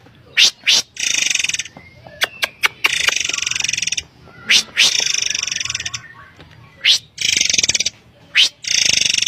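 Murai air (forktail) calls: short, sharp, high whistled notes, each followed by a rattling, buzzy trill about a second long, repeated four times over.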